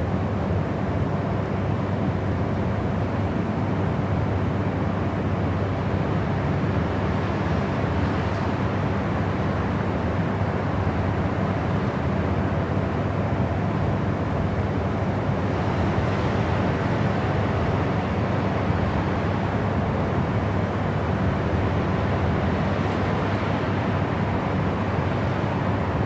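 Steady white noise for sleep: an even, unbroken rush with most of its weight low and little hiss on top, and a faint steady hum running through it.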